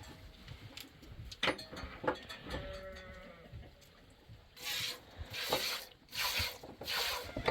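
Goats bleating: one drawn-out bleat a few seconds in, then a rapid run of loud, harsh bleats through the second half, with a few knocks early on.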